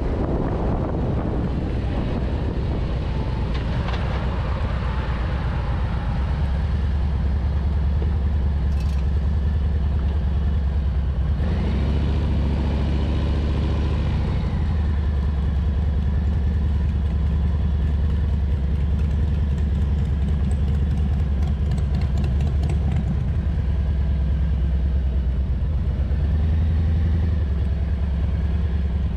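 Harley-Davidson Street Bob's 114 cubic inch V-twin engine running steadily, its note changing briefly about halfway through.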